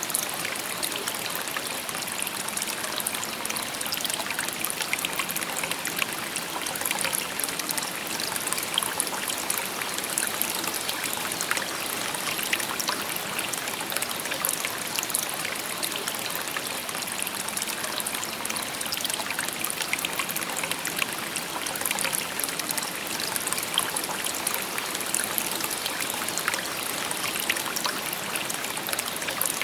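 A shallow river babbling and trickling over stones, steady and continuous, full of small splashes and gurgles.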